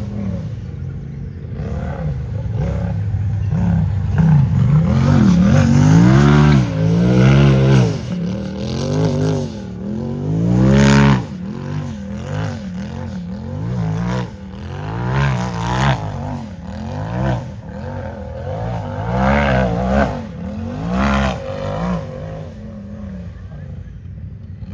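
Unlimited-class race UTV engine revving hard and repeatedly. The pitch rises and falls about once a second as the throttle is worked, and it is loudest in the first half.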